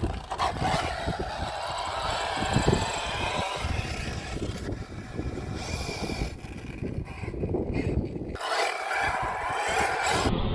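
Losi Baja Rey 1/10 RC trophy truck driving: its electric motor whine and running gear over a heavy, irregular low rumble, with the sound changing abruptly twice near the end.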